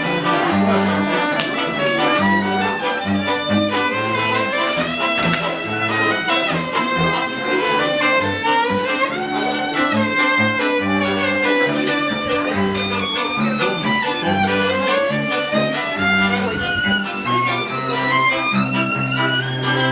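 Violins playing a melody over a low bass line, several pitched parts sounding at once.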